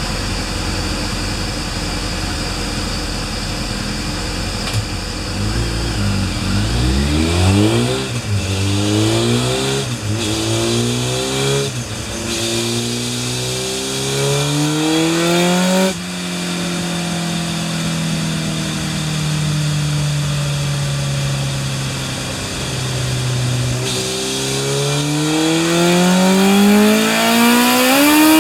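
Kawasaki GPz1100's air-cooled inline-four engine revving hard under acceleration. The pitch climbs in several steps for about ten seconds, eases off and holds, then climbs again near the end. The clutch is slipping badly.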